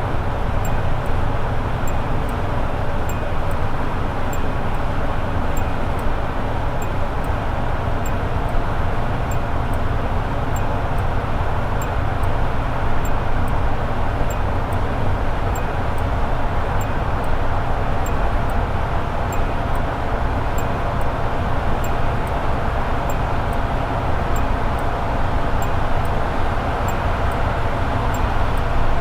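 Toyota AE86 Sprinter Trueno's four-cylinder engine holding a steady highway cruise, with an even low drone and steady road noise that never rise or fall.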